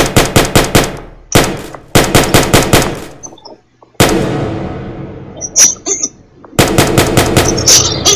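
Machine-gun sound effect: quick bursts of rapid gunfire at about six shots a second, three times, with a single shot between the first two. About four seconds in comes one loud blast whose sound fades slowly.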